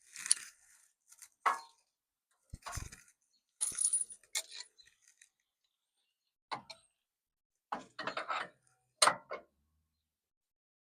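Small metal hardware clinking and rattling in short irregular bursts: bolts, nuts and washers being handled and fitted by hand while mounting a steel bumper.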